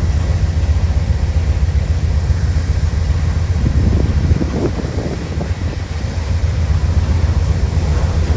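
Diesel locomotive running steadily, a loud, even low rumble.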